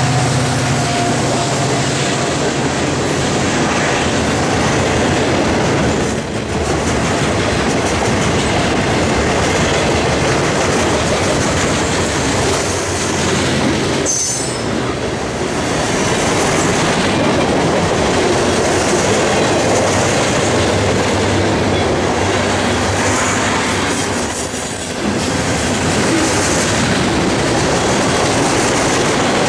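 CSX freight train rolling by close up, giving a steady loud rumble and clatter of steel wheels on the rails with a thin high wheel squeal through the first half. The rear locomotive's diesel drone fades out within the first second as the freight cars follow, and there are brief dips in the noise near the quarter, half and late points.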